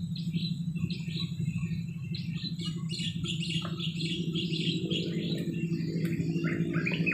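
Forest birds chirping, many short repeated notes, over a steady low hum.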